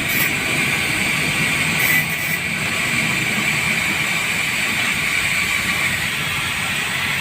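Steady mechanical running noise with a constant whine, unchanging throughout.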